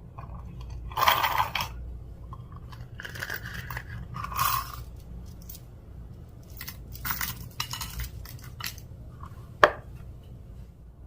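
Clear slime being squished and mixed by hand, in a series of irregular squishing bursts, with one sharp click near the end.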